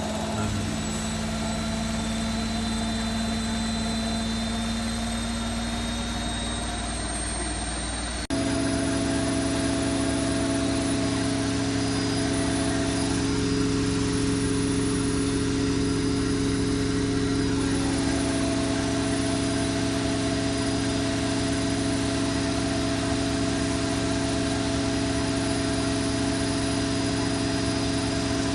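Zanussi Lindo 100 washing machine in its 1400 rpm final spin: the drum turns at high speed with a steady whine and hum. About eight seconds in the sound jumps abruptly to a louder, steady hum with a different pitch.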